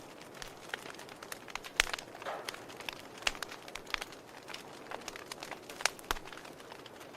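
Wood fire burning in a fireplace, logs crackling with irregular sharp pops over a low steady hiss of flame; the loudest pops come about two seconds in and near the end.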